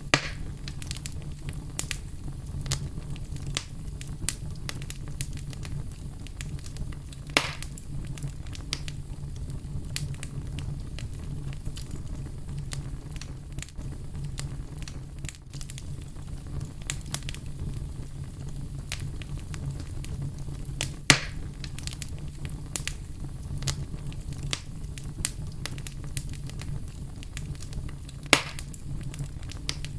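Fire burning with a steady low rumble and constant small crackles, with a few louder sharp pops, four of them standing out.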